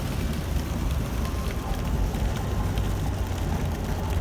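Heavy rain striking the windshield and roof of a moving van as many small ticks, over a steady low rumble of road and engine noise inside the cabin.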